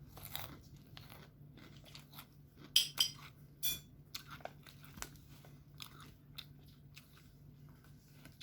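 Close-up eating sounds: chewing with scattered crisp crunches, the loudest crunches coming about three seconds in.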